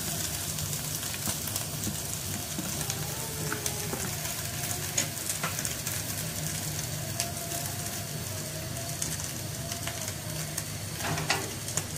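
Shredded boiled chicken breast and fried onions sizzling steadily in hot oil in a metal pan, stirred with a spatula that makes small scraping clicks against the pan.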